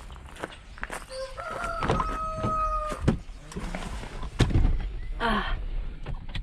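A rooster crowing: one long, steady crow starting about a second in, with a shorter chicken call later on. Knocks and thuds are scattered through it.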